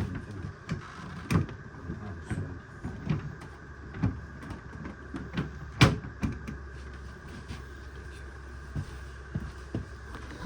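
Scattered knocks and clicks of a Whirlpool bottom-freezer drawer and its slide rails being handled and fitted, with one sharp knock about six seconds in, over a steady low hum.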